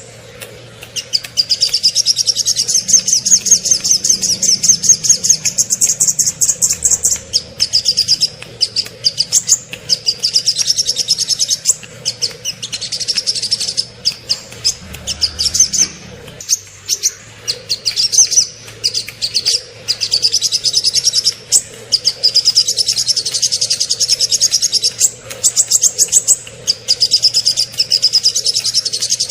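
Small songbirds singing rapid, high trills and chattering phrases one after another, with brief gaps between them. This is a masteran of small-bird song, used to tutor cage songbirds.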